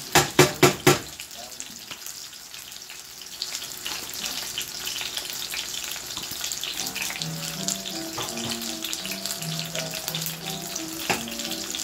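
Cipollini onions frying at medium heat in a stainless steel pan, a steady sizzling hiss, with four quick knocks in the first second. Music with a melody plays in the background from a little past halfway.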